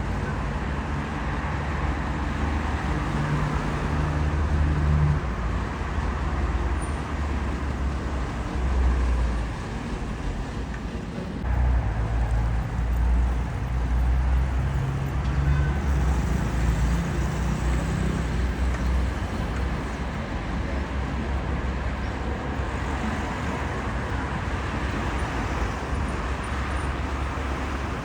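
Wind buffeting the microphone in a deep, gusty rumble over the steady wash of rough, stormy surf.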